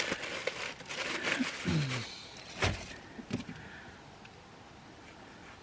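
Rustling and handling noises with a brief low murmur, then two sharp clicks about two and a half and three and a half seconds in.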